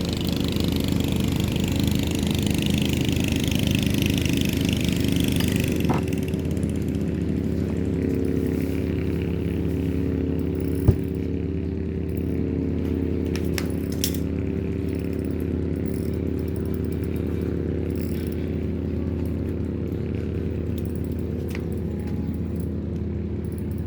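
A motor engine running steadily with a low, even hum, with a hiss over it for the first few seconds and a single sharp click about eleven seconds in.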